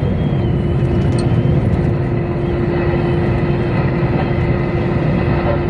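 Steady drone of a heavy truck's engine and road noise heard inside the cab while driving loaded at highway speed, with a steady hum.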